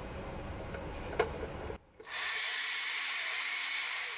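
Sea-Doo Sea Scooter's electric motor and propeller switched on out of the water. It runs with a steady hissing whir from about two seconds in, after a small click.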